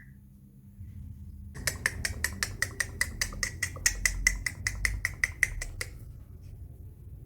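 Green rose-ringed parakeet making a rapid, even series of short clicking chirps, about six a second for roughly four seconds, starting a second and a half in.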